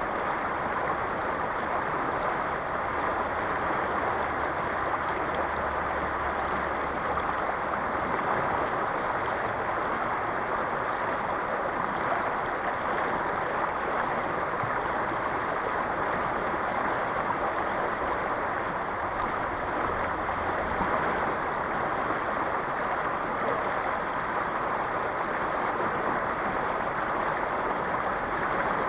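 Strong river current rushing steadily over rocks, a continuous even rush of water.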